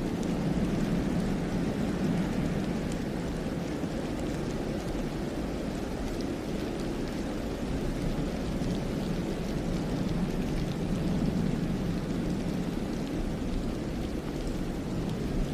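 Wind blowing through a snow-covered pine forest, a steady low rushing that swells and eases slightly, with faint scattered light ticks.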